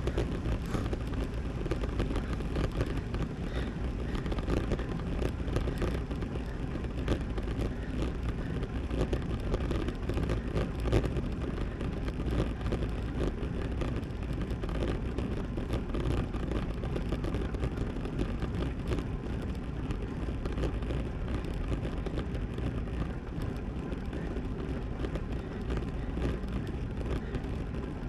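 Steady wind rush and road noise from a road bicycle riding along, with a few light clicks.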